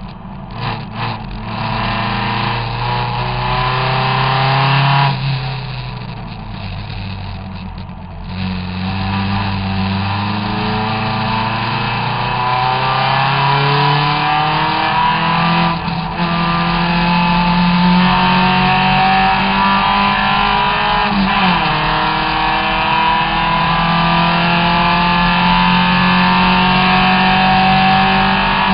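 Triumph TR3S Tribute's engine heard from its own cockpit under hard acceleration, its pitch climbing steadily and falling briefly at upshifts about 16 and 21 seconds in, after an easing-off and pick-up again between about 5 and 8 seconds in. Steady wind rush through the open cockpit underneath.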